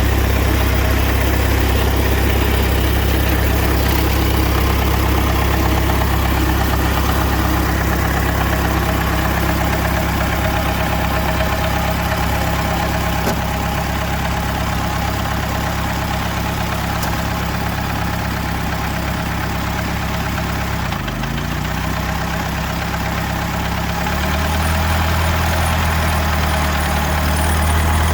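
Pre-war car engine idling steadily. About three-quarters of the way through, the pitch shifts and a deeper, louder hum sets in.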